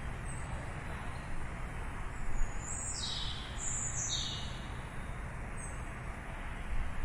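Small birds chirping in short, high calls, a few scattered through and a cluster in the middle, some sliding down in pitch. Under them runs a steady hum of distant city traffic.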